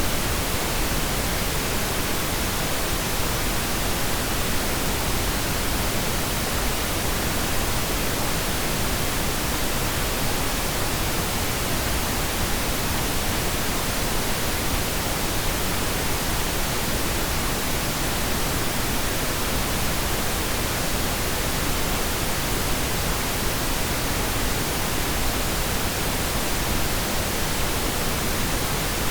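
Pink noise: a steady, even hiss at a constant level.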